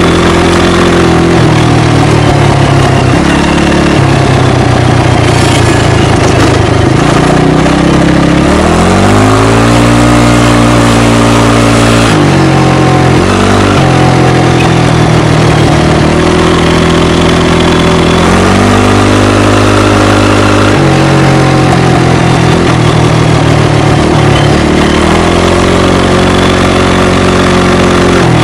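ATV engine heard right at the exhaust, its rear silencer removed, running loud and rising in pitch as it speeds up three times, easing back in between.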